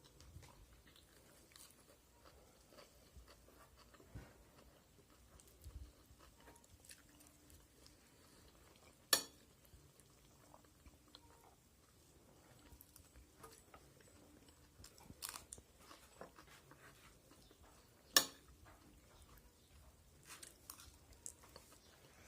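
A person chewing and biting food close to the microphone, with faint crunching. Two sharp clicks stand out, about nine seconds in and again about eighteen seconds in.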